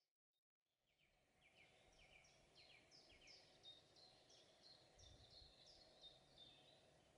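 Faint birdsong: short falling chirps repeated several times a second, starting about a second and a half in, over a faint background hiss.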